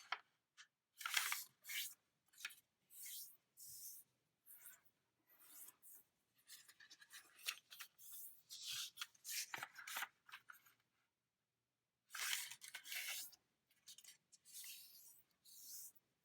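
A square sheet of origami paper being folded in half diagonally: faint, irregular rustling and rubbing in short bursts with brief silent gaps.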